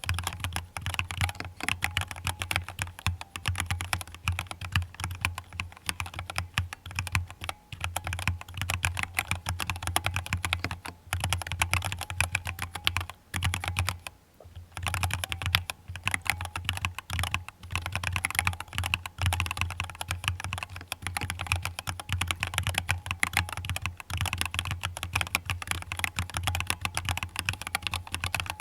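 Fast typing on a mechanical keyboard: a dense, continuous patter of key clicks and clacks, with a short pause about halfway through. A steady low hum sits underneath.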